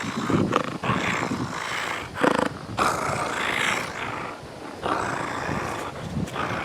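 Pet coyote making rough, noisy vocal sounds in a series of short bursts, each about half a second to a second long.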